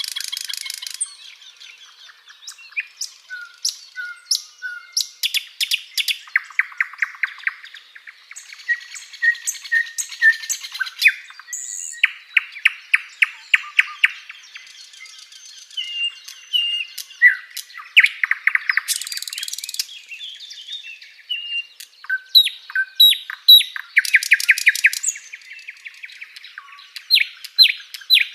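Sikatan londo flycatcher singing a continuous, varied song of rapid trills and short chirps and whistles.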